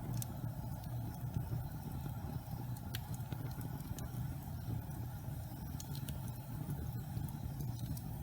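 Wood fire burning in a fireplace: a steady low rumble of flames with a few scattered sharp crackles and pops, the clearest about three seconds in.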